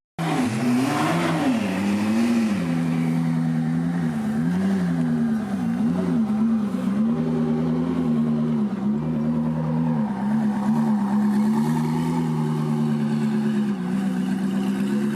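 Koenigsegg hypercar's twin-turbo V8 running just above idle, its note rising and falling again and again with light, repeated blips of the throttle.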